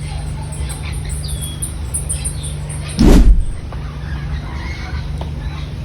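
Outdoor background of high bird chirps over a steady low rumble, broken by one brief loud bump about three seconds in.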